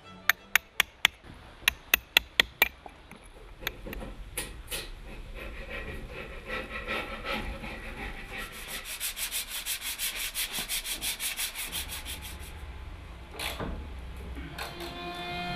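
Hand tool rasping on wood in rhythmic strokes, a few strokes a second, during restoration work on the workshop building. It follows a run of sharp taps at the start, and music comes in near the end.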